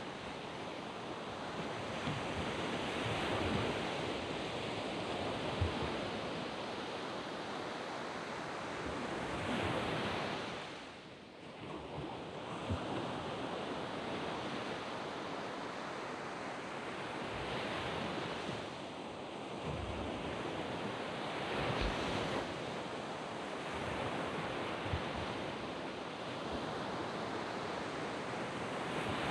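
Waves breaking and washing up a sandy beach: a continuous rushing surf that swells and eases every few seconds, with a brief lull about eleven seconds in.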